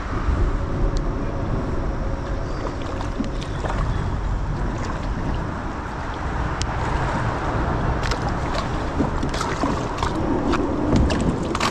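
A kayak and paddle working through a tight spot in a creek: a steady rushing noise with a low rumble from water and wind on the microphone. Scattered sharp knocks and clicks come in from about eight seconds in.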